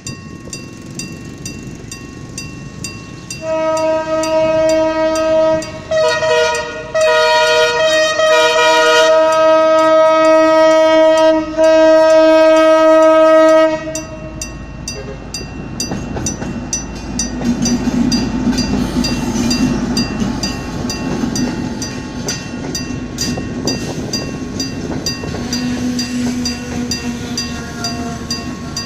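Diesel locomotive horn sounding a chord in several long blasts, held for about ten seconds in all, starting a few seconds in. It is followed by the rumble of the passenger train's engine and wheels running along the track.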